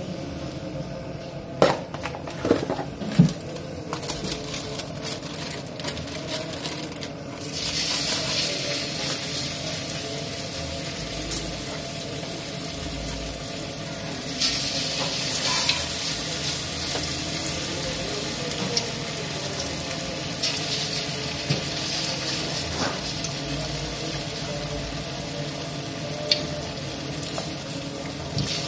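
A few clinks and knocks of utensils, then, about seven seconds in, a steady sizzle of spoonfuls of mashed tofu mixture frying in hot oil in a wok, with small crackles through it.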